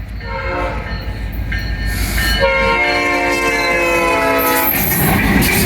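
Locomotive air horn sounding a long chord as a CN freight train approaches, its pitch shifting lower about halfway through; as it stops near the end, the rumble of the multi-unit diesel locomotive lashup passing takes over and grows louder.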